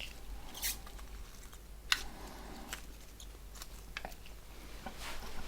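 Small sharp plastic clicks and handling noise from a Nokia 6680 mobile phone being picked up and its keys pressed, the sharpest click about two seconds in. No startup tone is heard.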